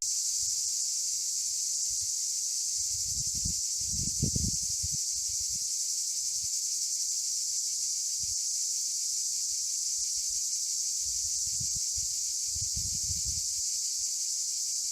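Steady, high-pitched chorus of insects in summer, with a few soft low thumps a few seconds in and again near the end.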